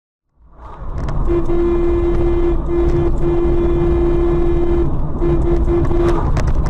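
Car horn sounding in one long blast of about three and a half seconds, then several short honks, over loud traffic and engine noise that comes in about half a second in.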